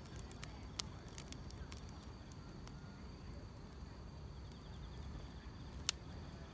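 Firewood burning, crackling with irregular sharp pops, the loudest about six seconds in, over a low rumble of the flames. Behind it, grass insects keep up a faint, steady high-pitched trill.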